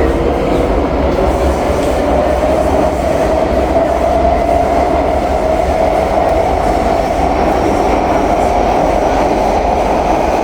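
SMRT C151B metro train heard from inside the car while running: steady wheel-on-rail rumble with a clickety-clack, and a traction motor whine that rises in pitch over the first few seconds, then holds as the train gathers speed.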